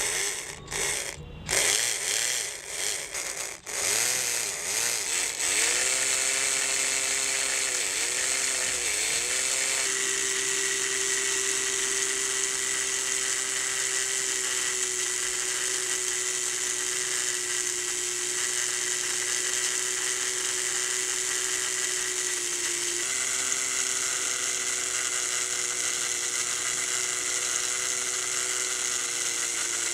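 Small electric motor of a homemade model straw-blower machine whining. It stops and restarts briefly a few times, then runs steadily with a hiss of moving air and parts, dropping slightly in pitch about two-thirds of the way through.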